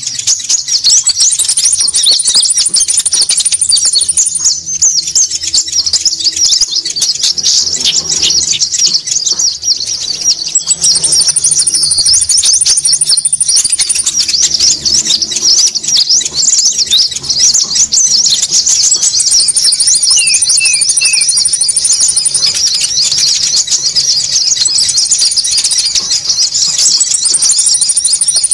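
Konin birds calling noisily on a bird-trapping lure recording: a dense, unbroken, high-pitched chatter of many quick calls. A thinner, even higher trill repeats on top of it several times, and a short run of three quick falling notes comes about two-thirds of the way through.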